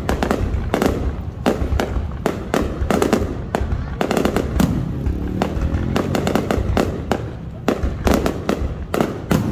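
New Year fireworks display: aerial shells bursting in quick, irregular succession, many sharp bangs and crackles over a steady low rumble.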